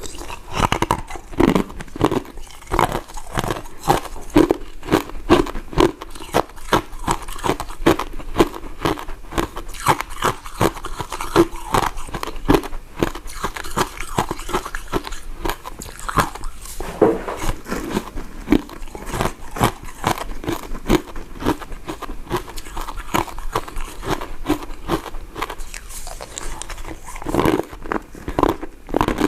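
Close-miked biting and chewing of soft, powder-coated mint sweets: a dense, continuous run of quick crunches and clicks.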